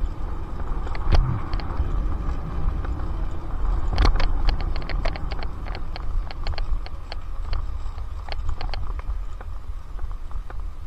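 Electric mountain bike with a Bafang BBS02 mid-drive motor riding up a road, heard from a helmet-mounted camera. Wind rumbles on the microphone under a steady whine, with frequent clicks and rattles from the bike over the surface and a louder knock about four seconds in.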